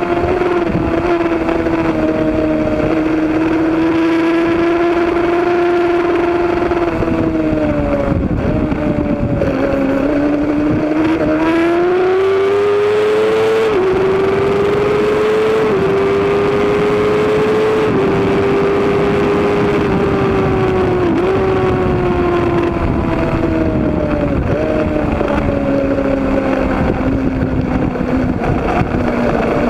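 Racing motorcycle engine at high revs under hard riding, heard over wind rush. Its pitch climbs with brief sharp dips at quick upshifts around the middle, then falls in steps through downshifts near the end.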